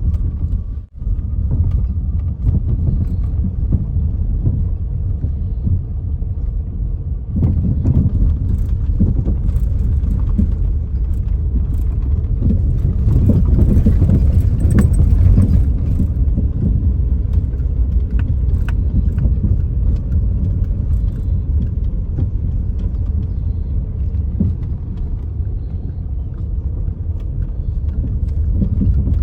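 Steady low rumble of a vehicle travelling on the road, with a brief dropout about a second in.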